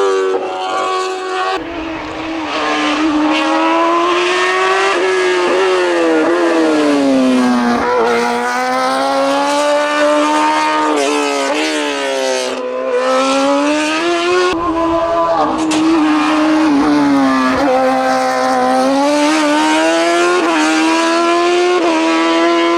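Race car engine at full attack on a hillclimb: the engine note climbs hard under acceleration, drops at each lift or gearshift into a corner, and climbs again, over and over.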